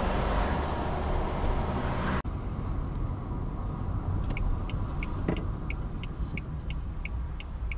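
A car heard from inside the cabin: steady road and engine noise at dual-carriageway speed, then, after a cut, quieter low-speed running. About halfway through, a turn-signal indicator starts ticking, roughly three clicks a second, as the car approaches a roundabout.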